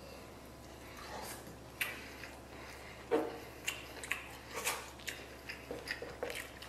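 Close-up eating sounds: wet chewing and lip smacks from a mouthful of braised pork rib, coming as irregular short smacks a couple of times a second from about two seconds in, the loudest about three seconds in.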